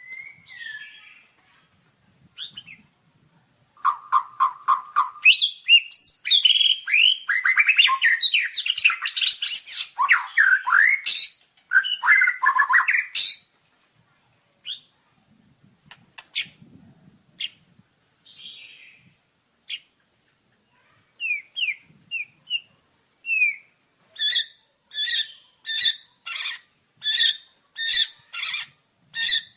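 White-rumped shama singing: a run of rich, varied whistled phrases, then a few scattered short notes, and near the end a steady series of short repeated notes about one and a half a second.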